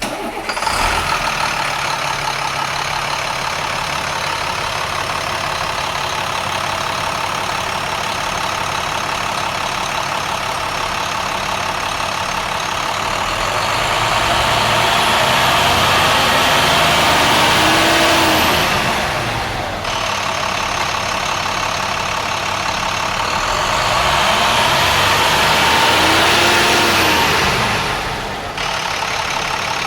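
International MaxxForce DT inline-six turbo diesel engine starting up and settling into a steady idle, then revved up twice for several seconds each and let fall back to idle, a faint high whine rising and falling with each rev.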